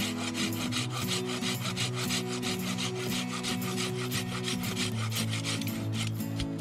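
Hand saw cutting through wood in quick, even strokes, stopping about five seconds in.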